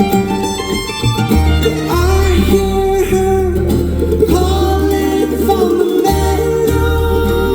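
Acoustic string band playing live: fiddle, mandolin, guitar and upright bass in a bluegrass-style passage without words, with a gliding melody line over a steady bass.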